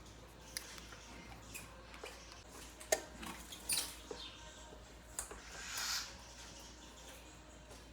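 Small sharp clicks and a short scrape of hand tools on phone parts, about four clicks with a brief scraping sound near the end.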